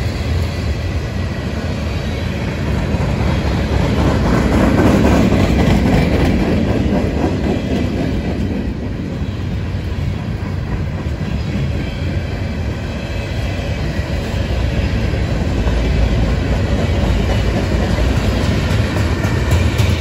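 Freight train cars (covered hoppers and tank cars) rolling past at trackside: a steady rumble of steel wheels running on the rails.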